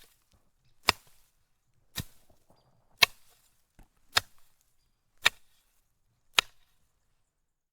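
A sharp crack or strike repeated six times at an even pace, about one a second, then stopping.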